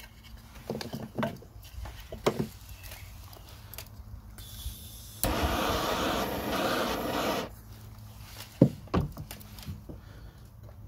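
Light handling knocks and rubbing on a plastic part. About five seconds in, a gas torch hisses steadily for about two seconds as it heats the plastic to soften it. Two sharp knocks follow near the end.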